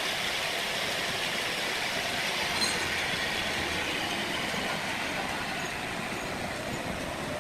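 Steady mechanical noise of sawmill machinery running, with one short sharp click about two and a half seconds in.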